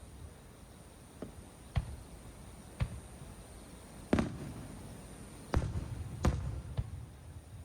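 Aerial firework shells bursting overhead: about seven sharp bangs at irregular intervals, each followed by a low rumbling echo, the loudest about four seconds in.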